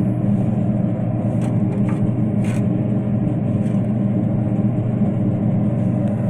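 Heat gun running steadily at full heat in a pellet furnace's burn pot, a constant motor-and-fan hum, with a few faint ticks over it.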